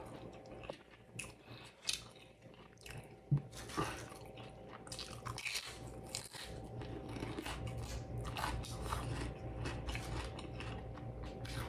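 Close-miked chewing of a mouthful of food: wet mouth clicks and soft crunches at an irregular pace, with one louder click a little over three seconds in.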